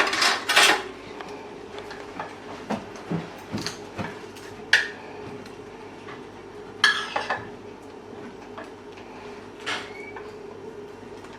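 A spoon clinking and scraping against a plate and bowl at irregular intervals while spicy Samyang sauce is spread over fried chicken, with a louder cluster of knocks at the start and again about seven seconds in.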